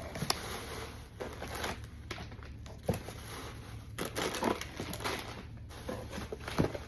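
Plastic snack packaging crinkling and crackling as it is handled, with irregular sharp crackles throughout.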